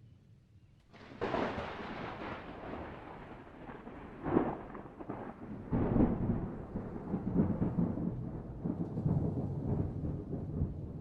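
Thunder: a sudden crack about a second in, then a long rolling rumble with two further sharp cracks near the middle.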